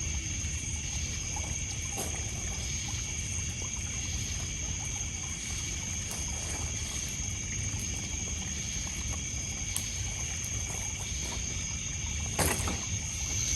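Night ambience of crickets and other insects trilling steadily in high continuous tones, over small waves lapping and trickling on a pebble beach. A campfire gives a few faint crackles, with one louder pop near the end.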